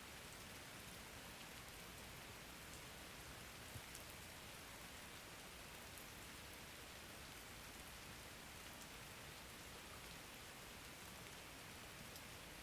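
Faint, steady rain: an even hiss of falling rain with occasional sharper drop ticks.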